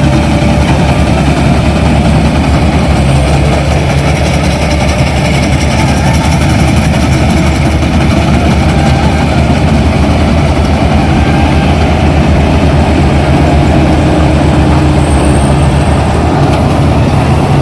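Kubota combine harvester's diesel engine running steadily and loud, with a continuous low drone and mechanical noise that does not break.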